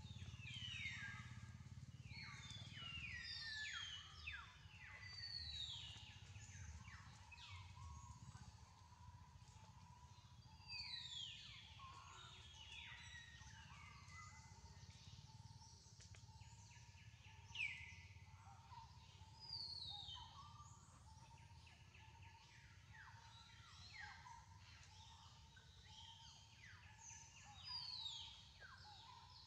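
Forest birds calling, a faint scatter of short whistled notes that slide downward in pitch, repeated in loose clusters, over a faint steady hum.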